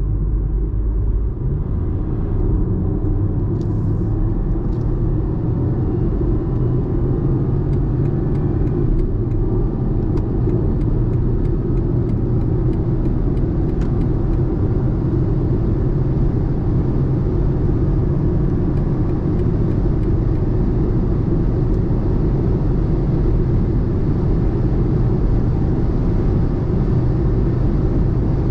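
BMW 118i F40's 1.5-litre three-cylinder turbo petrol engine and road noise at Autobahn speed, a steady low drone. Faint light ticks come in the middle.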